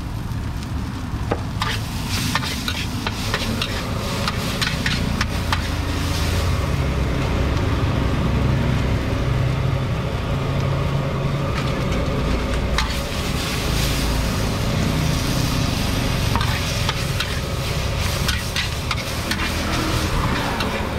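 Food sizzling in hot oil at a street-food stall, with many small pops and crackles, over a steady low rumble.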